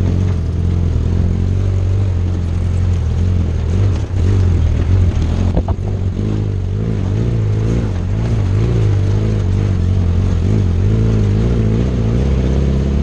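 Suzuki Samurai's 1.6-litre four-cylinder engine running at low revs as the little 4x4 crawls over a rocky trail, a steady low drone that wavers a little with the throttle.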